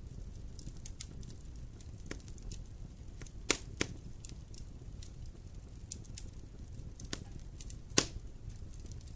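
Wood fire crackling over a steady low rumble of flame, with scattered sharp pops, two louder ones close together about three and a half seconds in and the loudest near the end.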